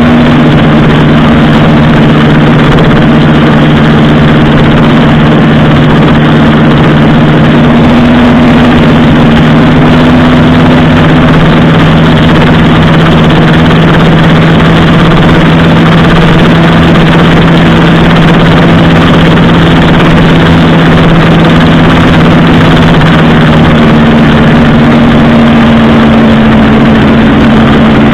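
Motorcycle engine running loud and close to the microphone at a nearly constant pitch, under a steady rushing noise.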